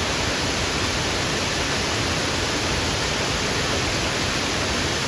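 Steady, even rush of a waterfall close by, the roar of falling water filling every pitch at a constant level.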